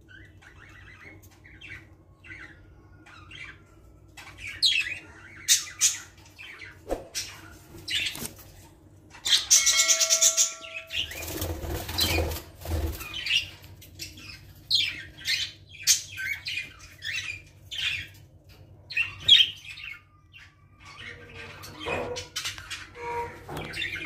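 Small cage birds chirping, with many short high chirps in irregular runs, over a low steady hum. About halfway through there is a brief louder burst of noise with a held tone in it.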